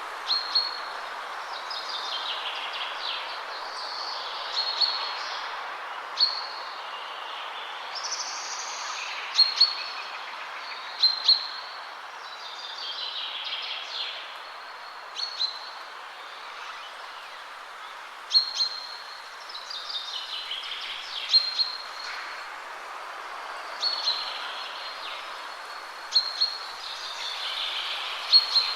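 Wind rushing steadily through trees while songbirds sing. One bird gives a short, sharp high call every two to three seconds, and others add falling, warbling phrases.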